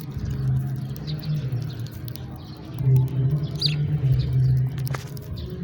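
House sparrows chirping: short, high chirps a few at a time, over a louder low, steady hum.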